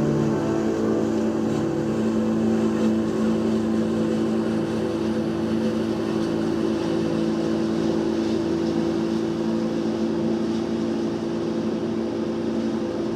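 An engine running steadily at a constant speed, typical of tree-removal equipment such as a chipper or a truck.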